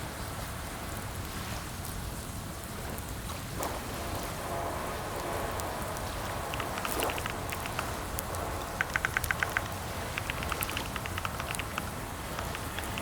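Computer keyboard being typed on in quick bursts of rapid key clicks in the second half, over a steady background hiss.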